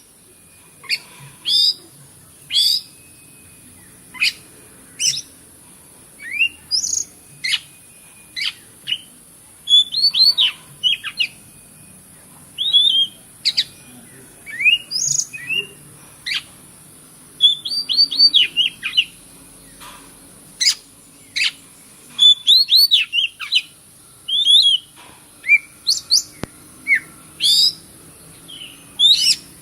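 Oriental magpie-robin singing a rapid, varied run of sharp chirps and whistled notes in quick bursts with short pauses between, over a faint steady high hiss.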